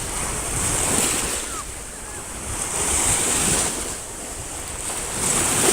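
Sea surf breaking and washing in strong wind, with gusts buffeting the microphone. The rush swells and fades several times, loudest about a second in, around three seconds in and near the end.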